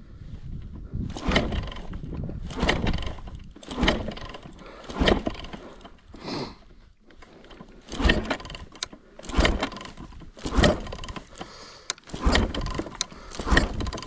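Yamaha YZ450 four-stroke dirt bike being kick-started over and over, each kick a short thump and brief turnover of the engine, about one a second and a half with a pause midway; the rebuilt engine does not catch.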